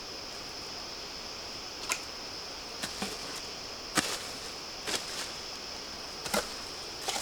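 A steady high-pitched insect drone with a string of sharp knocks or snaps, about one a second, the loudest about four seconds in.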